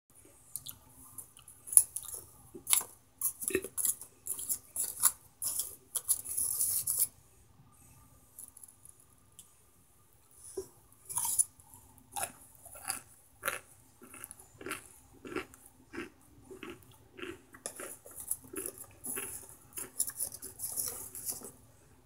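Crunchy microwaved cornstarch chunks being bitten and chewed. A run of sharp, crisp crunches is followed by a pause of a few seconds. Steady chewing then follows at about one and a half bites a second, with more crisp crunching near the end.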